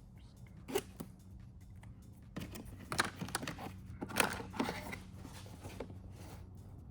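Foil-backed sound-deadening mat being handled and worked, with crinkling, tearing scrapes: one about a second in, then a busy run between about two and a half and five seconds in. A faint steady hum lies underneath.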